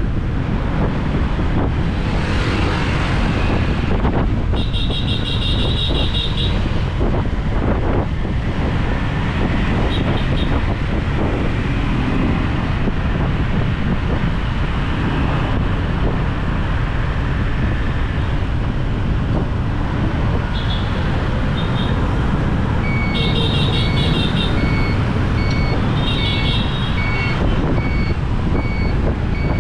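Motorbike riding through city traffic: steady engine, tyre and wind rumble. A buzzy horn sounds about five seconds in, and over the last several seconds there is a run of short high beeps, about one a second.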